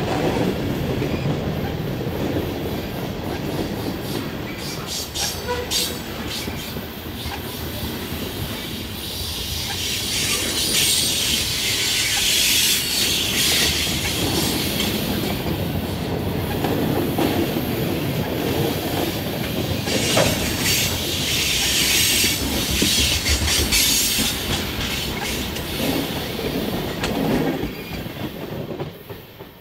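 A train rolling past, its steel wheels running over the rails, with a high-pitched rushing noise that swells twice: around the middle and again about two-thirds of the way in. The sound drops off sharply near the end.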